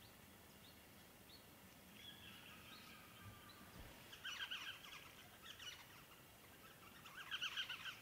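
Wild birds calling faintly: a short whistled note, then two bursts of rapid, chattering calls, the second near the end.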